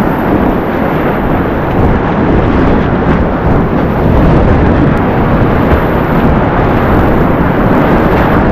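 Whitewater river water rushing, a loud steady muffled rumble with little treble.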